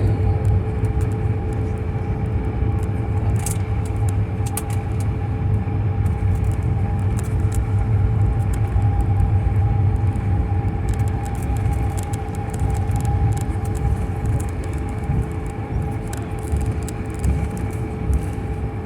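Airliner cabin noise on the ground before takeoff: a steady low rumble with a constant jet-engine whine, and scattered light clicks and rattles.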